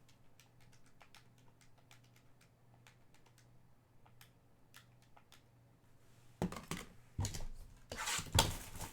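Faint clicking of typing on a computer keyboard. About six seconds in, louder knocks and handling bumps close to the microphone take over.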